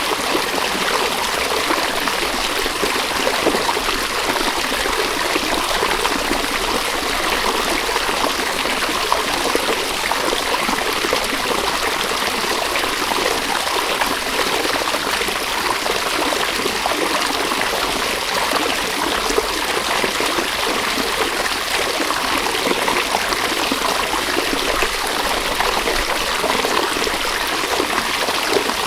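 A river flowing steadily, a continuous rush and trickle of running water with no breaks.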